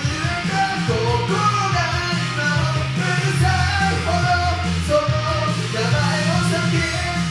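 A man singing a Japanese pop-rock song over a karaoke backing track with band instruments.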